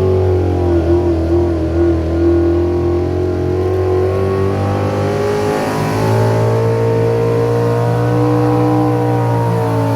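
A pulling vehicle's engine running hard under load, its pitch sagging over the first few seconds, climbing again about five seconds in, then holding steady.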